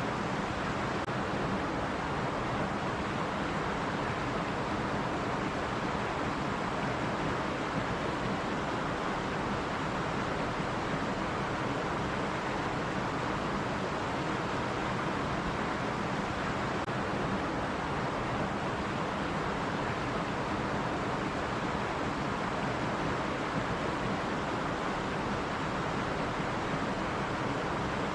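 Stream water running steadily over rocks, a continuous even rush with no breaks.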